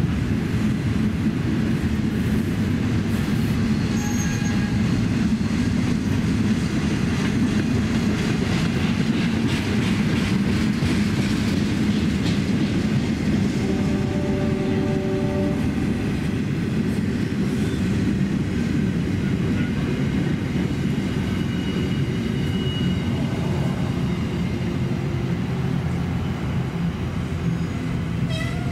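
Container wagons of a long freight train rolling past, a steady rumble of wheels on rail with a few brief high squeals.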